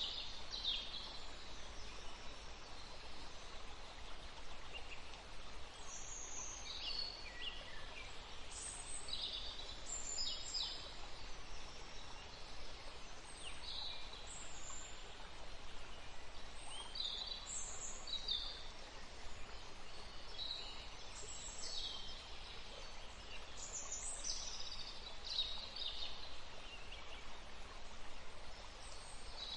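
Small birds singing, with short high chirps and quick falling notes every second or two, over the steady rushing of a forest stream.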